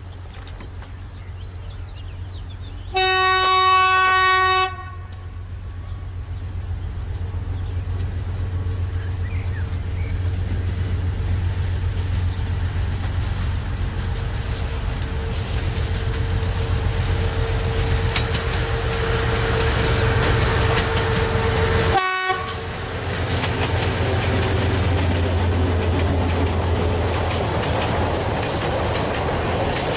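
Diesel locomotive hauling a freight train: one horn blast of about a second and a half a few seconds in, then the engine's drone growing louder as it approaches and passes. After that comes the steady rolling noise of the open freight wagons' wheels on the rails.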